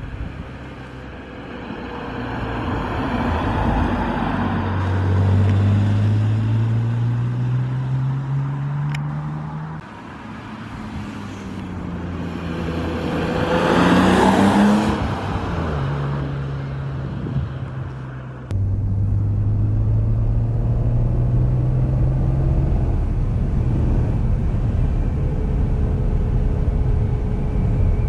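1998 BMW E36 M3's straight-six engine accelerating hard several times, its pitch climbing steadily, then dropping or cutting off before climbing again. About halfway through the car swells to its loudest, as if passing close. Near the end the sound jumps suddenly to a louder, steadier engine note that rises once more and then holds.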